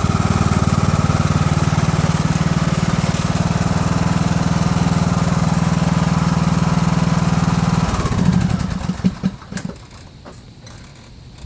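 Riding lawn tractor's engine running steadily, then switched off about eight seconds in, chugging a few times as it runs down and stops.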